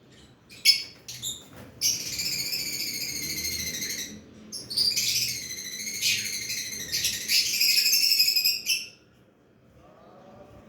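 Lovebirds chattering: a few short chirps, then two long runs of rapid, high-pitched twittering, the second lasting about four seconds.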